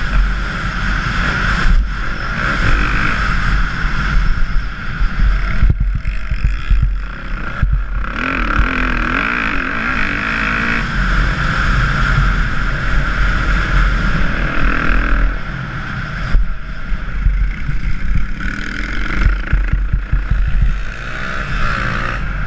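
Dirt bike engine running hard around a motocross track, its pitch rising and falling as the throttle is worked through the ride.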